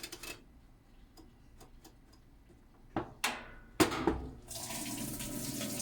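Amana washing machine being set going: faint ticking clicks from its controls, a few sharper clicks about three to four seconds in, then water starting to rush steadily into the tub as the fill begins.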